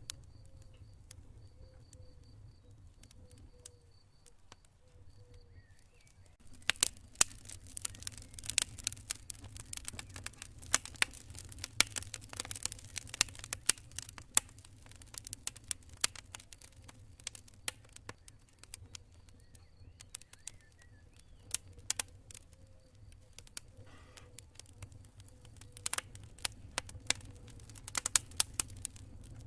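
Campfire crackling, with sharp pops and snaps that turn dense about six seconds in, over a steady low rumble. A cricket chirps in short, evenly spaced pulses during the first few seconds and again later on.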